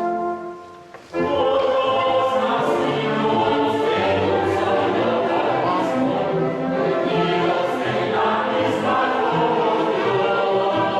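Music with held, sustained tones fades out, and about a second in a choir starts singing with accompaniment.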